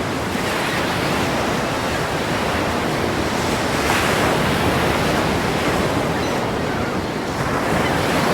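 Ocean waves crashing against a pier: a continuous loud wash of surf, swelling as a wave breaks about four seconds in and again near the end.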